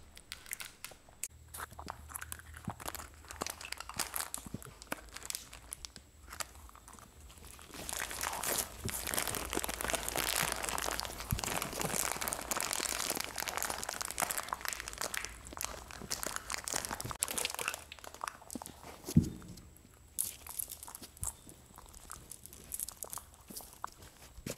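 Baby monkey crunching and chewing hard candies, with many small sharp crunches, and the crinkling of a plastic candy wrapper being handled, loudest and densest through the middle. A single sharp thump comes a few seconds before the end.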